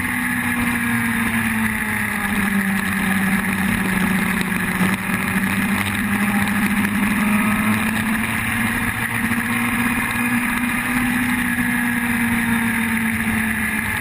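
Yamaha R1 sport motorcycle's inline-four engine running steadily, its pitch dipping slightly in the first seconds and then drifting gently up and down, over a steady rushing noise.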